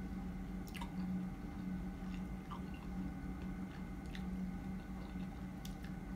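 Close-up chewing of a mouthful of fresh strawberries, soft and wet, with a few faint clicks from the mouth. A steady low hum runs underneath.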